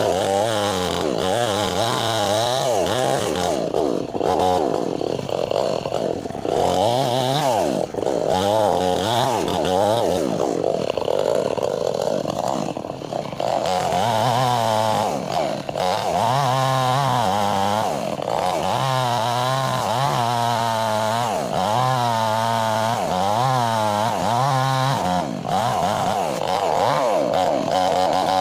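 Two-stroke chainsaw running under load while splitting wood, its engine pitch rising and falling over and over, about once a second, as it cuts.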